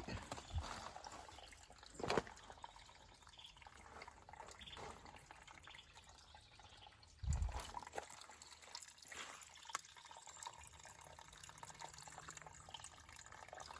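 Faint trickling and dripping water, with a soft thump about two seconds in and a louder one about seven seconds in.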